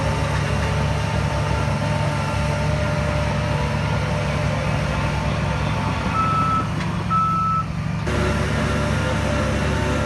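Heavy diesel earth-moving machinery running steadily with a reversing alarm beeping; two clearer beeps come about six and seven seconds in.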